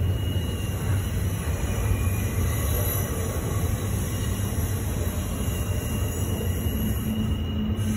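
Double-stack intermodal freight cars rolling past close by: a steady low rumble of steel wheels on rail, with faint high wheel squeal on the curve.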